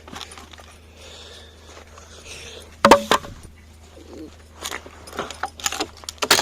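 A salvaged board being handled and pulled free: one loud knock with a brief ringing clatter about three seconds in, then a run of lighter knocks and clicks near the end.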